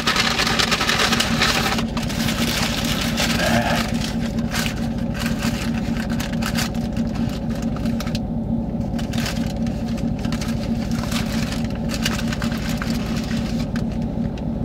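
A car engine idling with a steady low hum, with a rustling noise over it in the first two seconds.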